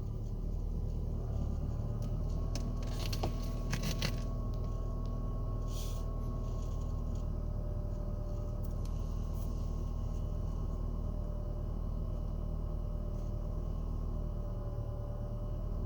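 Renault Kaptur's 1.6-litre H4M four-cylinder petrol engine idling steadily shortly after a cold start in deep frost (about −25 °C). A few short clicks about three to four seconds in.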